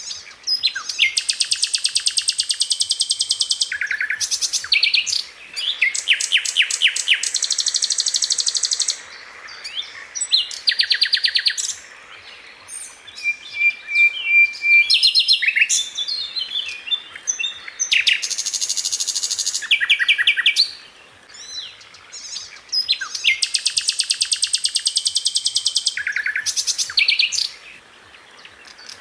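Sikatan londo, a flycatcher, singing in bursts of very rapid, tightly spaced high notes. Each burst lasts one to three seconds, with short pauses and softer chirps between them. These dense rapid-fire phrases are the 'tembakan' that bird keepers play to their songbirds to teach them.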